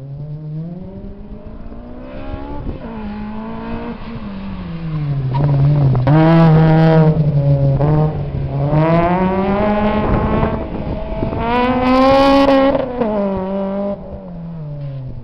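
Acura RSX Type S four-cylinder engine revving hard through a Buddy Club race header and Skunk2 Megapower R 70 mm exhaust, pitch climbing and dropping over several pulls as it accelerates and lifts between corners, the loudest pulls near the middle and toward the end.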